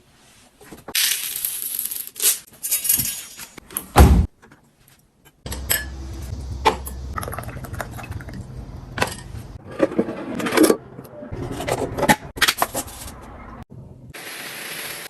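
Objects being handled and put away: a run of sharp clicks, clinks and scrapes, with stretches of hissing near the start and a loud knock about four seconds in.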